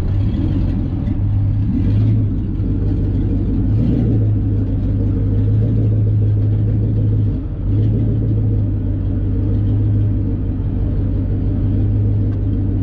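A truck engine running with a steady deep rumble, dipping briefly about seven seconds in and then carrying on.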